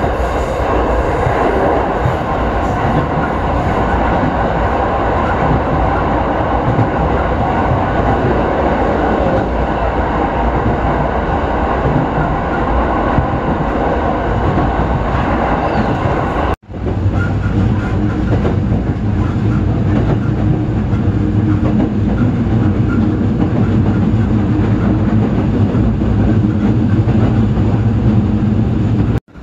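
Running noise of a Keiyo Line electric commuter train heard from inside the carriage: a steady rumble of wheels on rail at speed. The sound cuts out for an instant a little past halfway, then carries on with a steadier low hum.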